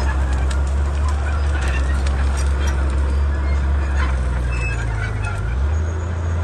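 Komatsu D31P bulldozer's diesel engine running steadily under working load, its note shifting about four seconds in and settling lower near the end. Scattered clicks and short high squeaks sound over it.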